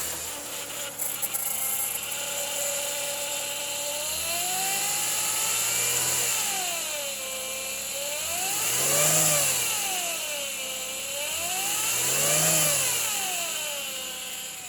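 2010 Chevrolet Impala LT's V6 engine running just after start-up. It idles steadily, then is revved up and let back down three times, the second and third revs higher and louder, before settling back to idle near the end.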